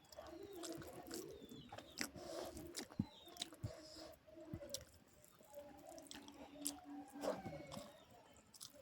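A person chewing a mouthful of rice, dal and vegetable curry, with many short sharp mouth clicks.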